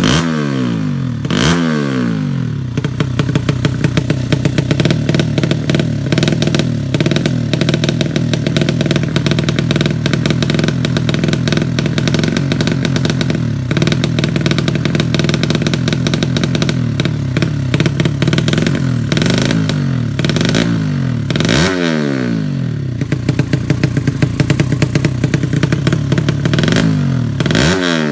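200cc drag-racing motorcycle engine running hard at high revs, its pitch mostly steady, dropping sharply twice near the start, once about 21 seconds in and again at the very end.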